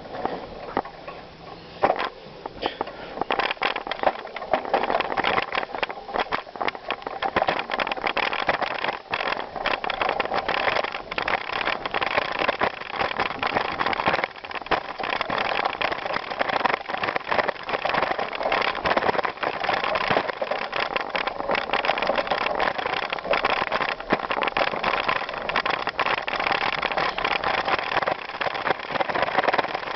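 Bicycle tyres rolling over a gravel trail: a dense crunching and rattling of loose stones, quieter for the first two seconds and then louder.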